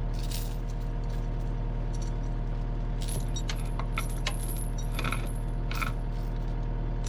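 Cat 259D compact track loader's diesel engine idling steadily, with a run of sharp metallic clinks and rattles between about three and six seconds in, as of a steel chain being handled.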